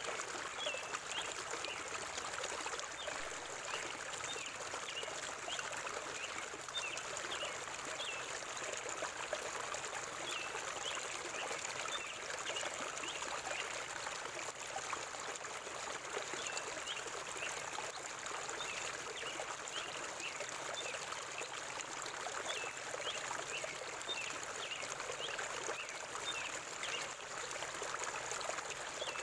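River water flowing steadily, with birds chirping in short, repeated calls throughout.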